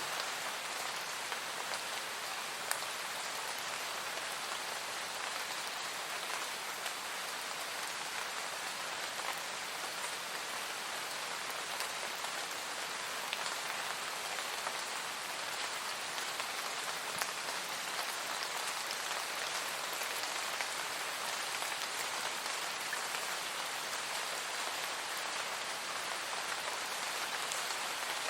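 Steady rain falling, an even hiss of drops with occasional single drops ticking out more sharply.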